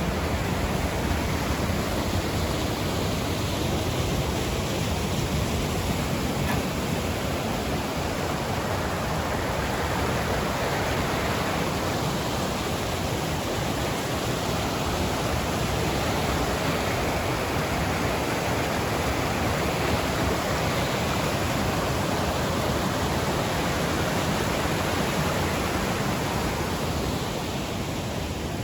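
Steady rush of water in a mountain stream, an even noise that holds constant throughout.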